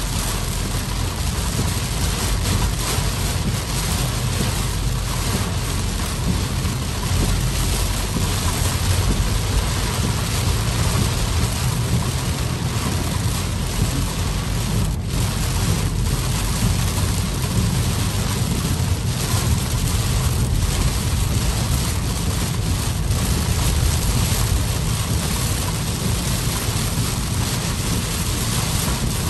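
Heavy rain on a moving car's roof and windshield, heard from inside the cabin as a steady, loud rush, with road noise and tyre spray rumbling beneath it.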